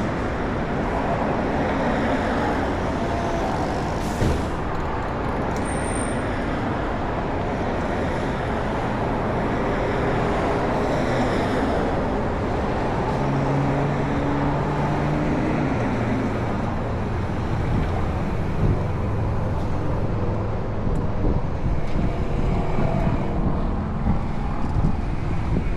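Steady road vehicle and traffic noise, with an engine's hum coming through for a few seconds in the middle.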